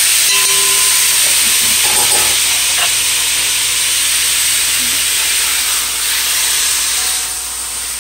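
Seasoned chicken pieces sizzling loudly in hot coconut oil in a pot, searing to a quick brown. The sizzle eases a little near the end.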